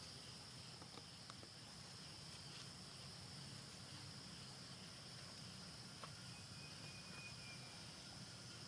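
Faint, steady high-pitched drone of insects, with a few faint clicks and, near the end, a brief thin whistle.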